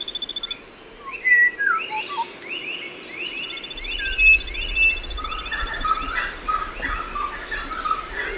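Tropical rainforest chorus: several birds calling with short whistled chirps and quick runs of rising notes, over an insect's rapid, even pulsing trill and a steady high insect hum. A low rumble comes in about four seconds in.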